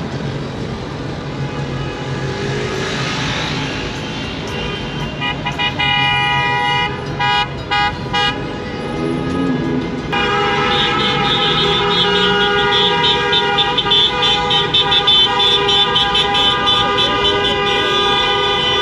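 A vehicle horn honking over road traffic: a few short honks, then about ten seconds in a long blast held without a break.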